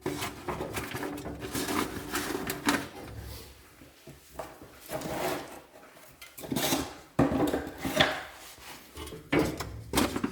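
Wooden offcuts being laid into a stove's firebox as kindling, with irregular knocks, clatters and scrapes of wood on wood and on the stove.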